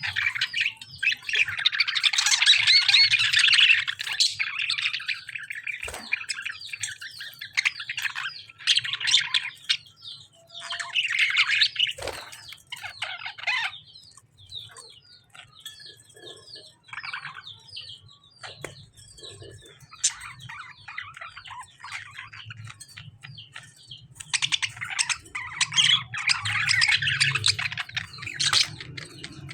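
Lovebirds and budgies chattering and squawking in loud bursts, with quieter stretches of quick, rapid chirps between. Twice there is a brief knock, and a faint low hum runs underneath.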